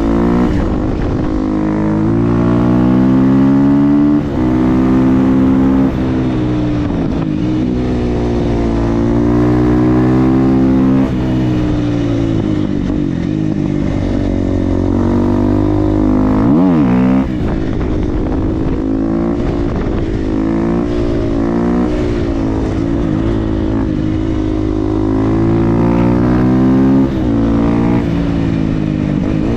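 Supermoto motorcycle engine with an FMF exhaust being ridden hard. The engine note climbs steadily under throttle, then drops sharply at each shift or throttle close, several times over, with a quick dip and rise about two-thirds of the way through.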